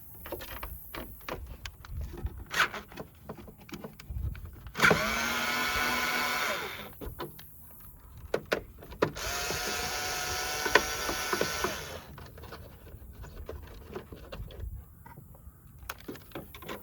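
A power driver backing out two screws in two motor runs of about two and three seconds. Each run rises in pitch as the motor spins up, then holds steady. Between and around the runs come small clicks and knocks from handling the parts.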